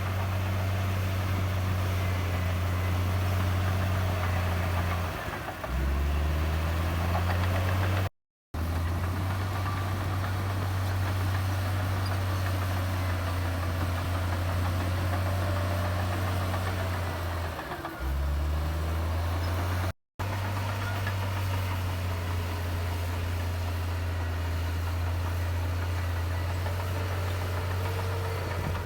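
Komatsu D58E bulldozer's diesel engine running steadily. Its pitch sags briefly twice and then picks back up, as the load or throttle changes. The sound cuts out for an instant twice.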